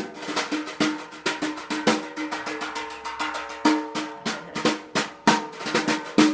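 Swing jazz drum break on a drum kit: quick, uneven snare strokes and rolls with bass drum accents, with faint pitched accompaniment underneath.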